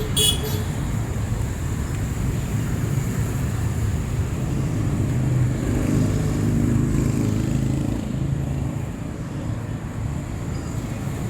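Street traffic: motor vehicle engines running and passing, with one vehicle louder as it goes by around six seconds in. A brief sharp high sound comes right at the start.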